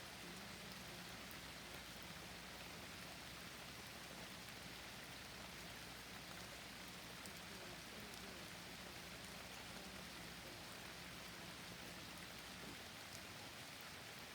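Steady, quiet rain falling in a forest, an even hiss with a few faint drop ticks.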